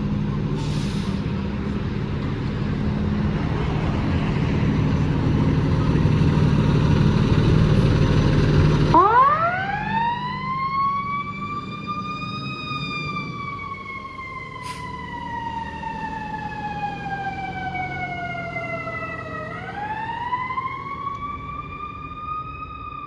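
A fire truck's heavy engine runs loud for the first few seconds, then stops abruptly. After that its mechanical siren winds up to a high wail, slowly coasts down in pitch, and winds up again near the end.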